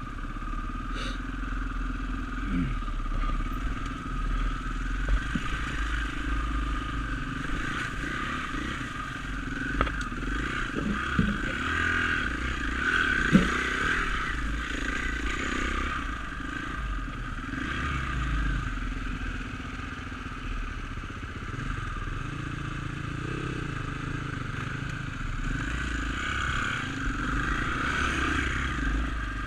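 Dirt bike engine running steadily on a trail ride, with a few sharp knocks partway through.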